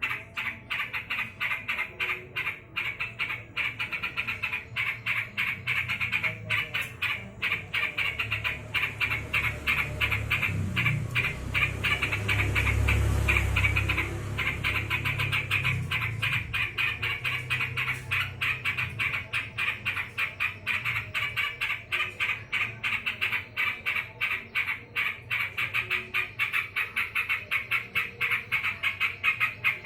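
Yellow-vented bulbul (trucukan) calling agitatedly, a rapid unbroken run of sharp chattering notes several times a second, typical of an angry, worked-up bird. A low rumble swells under the calls midway.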